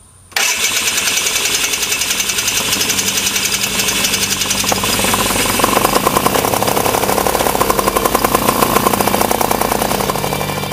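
Lazair II ultralight's small two-stroke engines running close by with a fast, even buzz, coming in abruptly just after the start and a little louder from about five seconds in.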